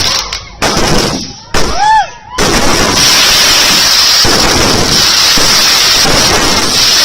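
Fireworks going off close by in a rapid, loud barrage of bangs and crackle, with a few short breaks in the first couple of seconds and then a long unbroken stretch.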